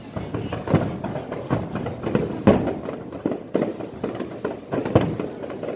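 Aerial fireworks going off in a dense, irregular run of bangs, several a second.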